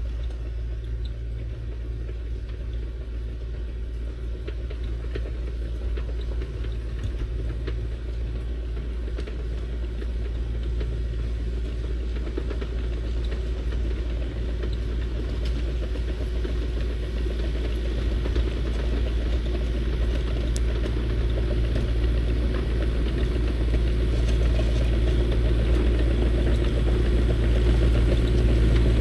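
Kubota KX040-4 mini excavator's diesel engine running steadily with a low hum while the machine works snow on a driveway, gradually getting louder over the half-minute.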